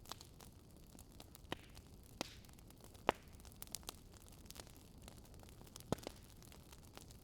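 Wood fire crackling in a fireplace: scattered sharp pops at irregular intervals over a faint, steady hiss, the loudest pop about three seconds in.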